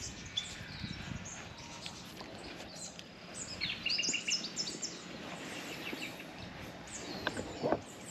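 Small birds chirping and calling over a faint outdoor background, with a quick run of short repeated high notes about half-way through. There is a short knock near the end.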